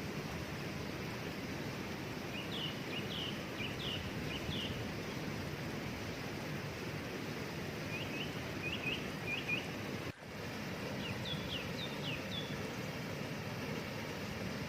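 Steady rush of a waterfall with a bird singing over it in three short phrases of quick, high, downslurred chirps: about two and a half seconds in, around eight seconds, and around eleven seconds. The sound drops out for an instant about ten seconds in.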